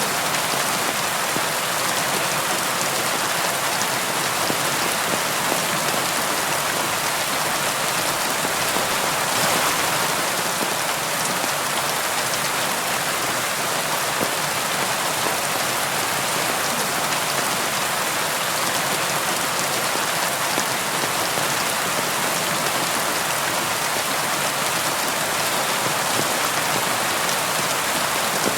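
Steady, even rainfall with a dense patter of raindrops on a surface, holding level throughout.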